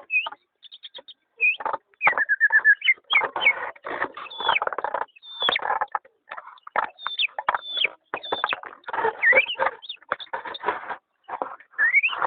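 Pet bird singing a varied, chattering song: whistled notes sliding up and down, a short trill about two seconds in, and rough chattering phrases in quick bursts with brief pauses.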